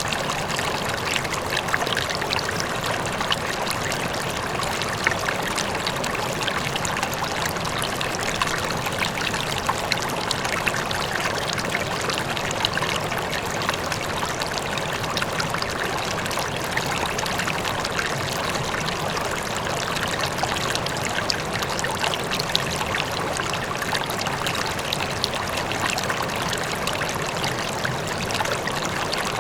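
River flowing: a steady rush of water sprinkled with many small splashing sounds, backed by a faint distant waterfall.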